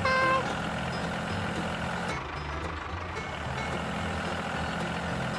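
A vehicle engine running with a steady low hum, with a short beep right at the start.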